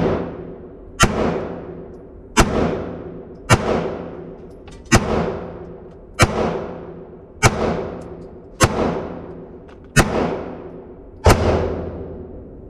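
Nine single gunshots from a 9mm gun fired at a slow, steady pace, about one every 1.3 seconds, each with a long echoing tail.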